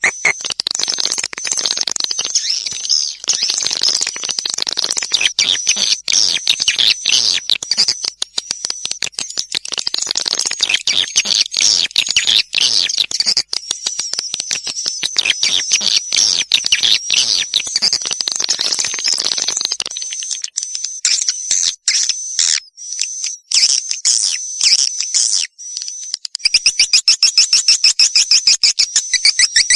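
Swiftlet calls played as a 'walet panggil' lure sound: dense, rapid twittering chirps and clicks, high-pitched. Near the end the chirping turns into an even, fast regular pulse.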